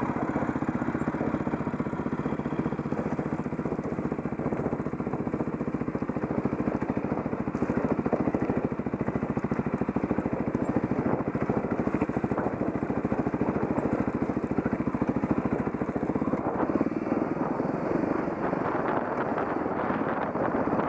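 Dirt bike engine running steadily while riding. The sound turns rougher and noisier about three-quarters of the way through.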